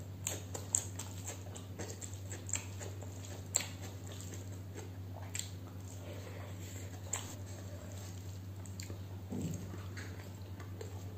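Close-miked mouth sounds of a person eating by hand: chewing with crisp crackles and smacks, busiest in the first few seconds and sparser after. A steady low hum runs underneath.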